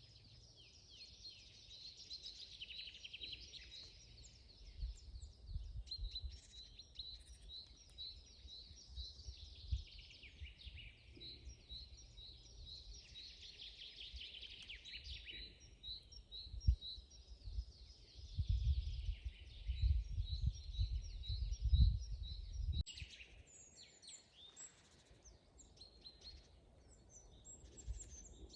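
Several songbirds singing together, with runs of quick repeated high notes and assorted chirps overlapping. A low, irregular rumble sits underneath, swelling a little past the middle and then dropping away.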